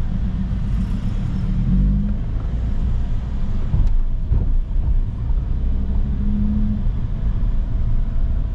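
Lamborghini's V10 engine and road noise heard from inside the cabin as the car drives slowly: a steady low rumble, with a brief knock about four seconds in.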